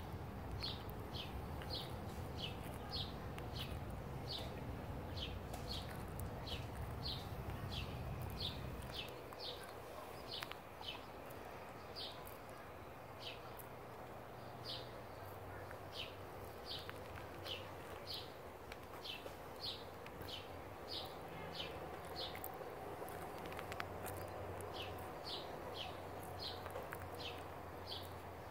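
A bird chirping over and over outdoors, short high chirps about two a second, with a couple of brief pauses. A low steady hum runs underneath, heavier for the first third.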